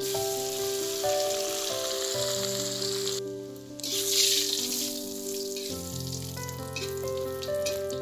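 Small salted fish frying in a wok: a steady sizzle that dips briefly a little past three seconds in. Background music plays over it.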